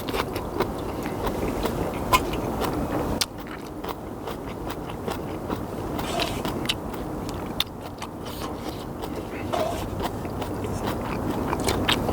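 Close-up eating sounds of a person chewing and eating instant ramyeon noodles, with many small sharp clicks scattered through.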